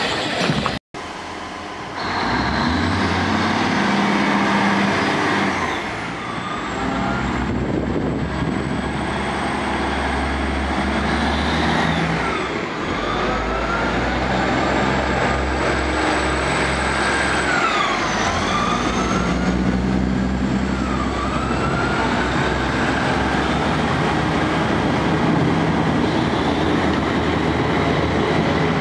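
Diesel multiple-unit train running close beside a station platform: a steady low engine drone under loud rail noise, with whining tones that rise and fall in pitch.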